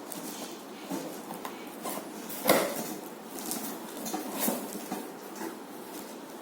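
Hard plastic parts of a water purifier knocking and clattering as they are handled, with one louder knock about two and a half seconds in.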